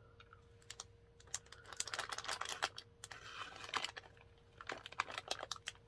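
Close-up chewing of a piece of candy corn: a string of small, uneven clicks and crackles from the mouth, starting about a second in.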